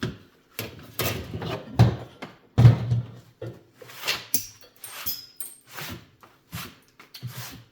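Irregular knocks and thunks of the metal fan blade and hub being worked free and handled on a workbench after their rivets are drilled out, with a brief metallic ring about five seconds in.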